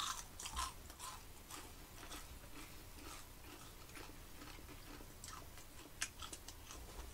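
Two people chewing fried cinnamon-sugar churros: faint, irregular crunching and small mouth clicks.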